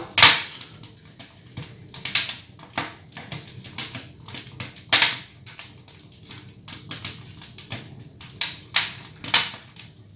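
Burning firewood crackling and popping in a Termofor wood-burning stove-fireplace: irregular sharp pops, the loudest near the start and about five seconds in, throwing out sparks.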